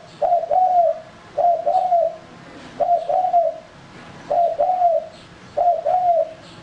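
Male spotted dove cooing: five repeated two-part coo phrases, each a short note then a longer arched one, about one every second and a half.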